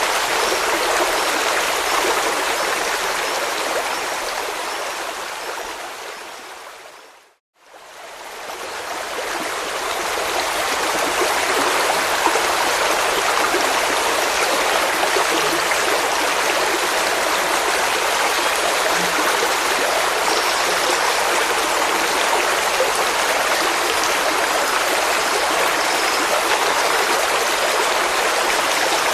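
Flowing stream water rushing steadily. About seven seconds in it fades out to a moment of silence, then fades back in over a couple of seconds, as at a loop or track join.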